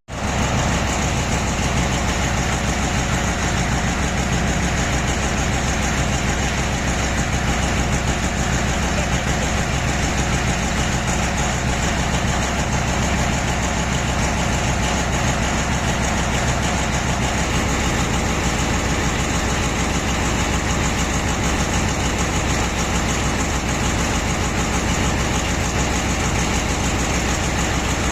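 Heavy diesel engines of mining machines, an excavator and dump trucks, running steadily at an even, unchanging level.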